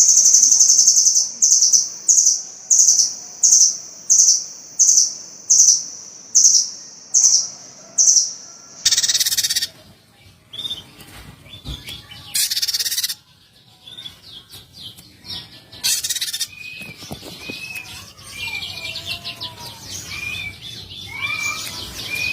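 Small songbirds calling: a run of about eleven harsh, high repeated notes, then, after an abrupt change about nine seconds in, a mix of shorter chirps and whistled notes.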